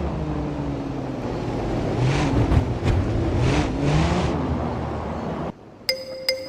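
Vehicle engine revving, rising in pitch twice, about two and three and a half seconds in. It cuts off suddenly about five and a half seconds in, and bright xylophone-like notes begin just before the end.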